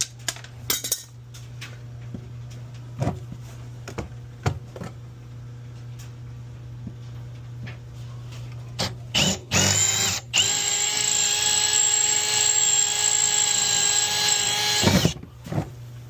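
Power drill running at a steady speed for about five seconds after a couple of short trigger pulls, drilling out rusted-in fasteners on a sewage pit lid. Before it come scattered light clicks and knocks of tools being handled.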